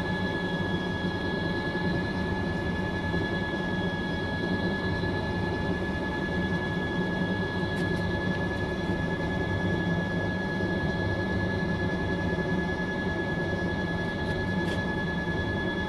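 Fisher & Paykel MW059 top-loading washing machine running with a steady high whine over a low hum.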